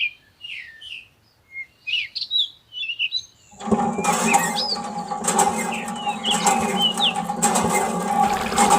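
Small birds chirping, short quick calls that sweep up and down in pitch. About three and a half seconds in, a steady hum with several held tones starts underneath and runs on beneath the chirps.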